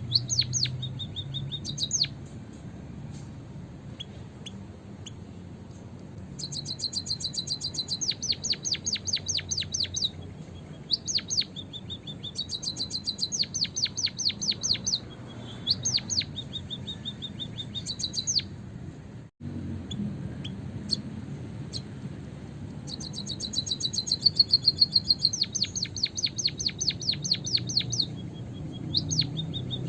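White-headed munia (emprit kaji) calling in repeated bouts of rapid, high chirps, each bout one to three seconds long. The sound cuts out for a moment about two-thirds of the way through.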